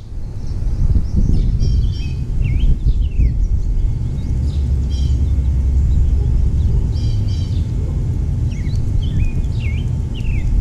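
Small songbirds chirping in short bursts of quick high notes, some sliding downward, every second or so, over a steady low rumble.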